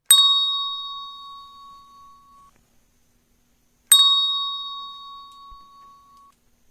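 A handbell struck twice at the same pitch, about four seconds apart, each clear note ringing out and dying away over two to three seconds.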